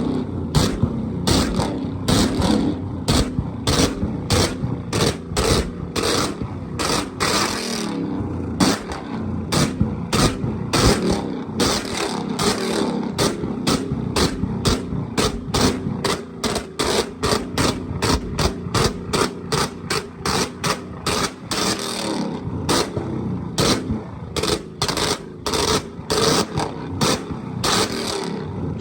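Car engine running with a rapid string of sharp cracks and pops, several a second and fairly regular, over a steady low engine note.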